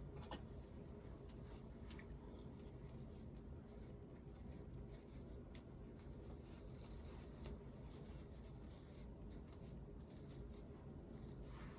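Faint rustling and light scratching, scattered irregularly over a low steady room hum.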